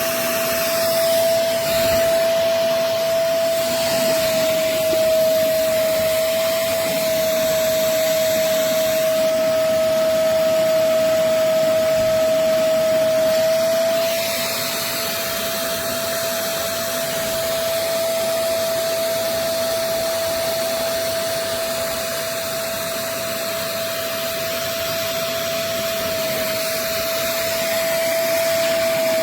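Vacmaster SCA0801 carpet spot cleaner's suction motor running steadily: a high steady whine over rushing air. It gets a little quieter about halfway through.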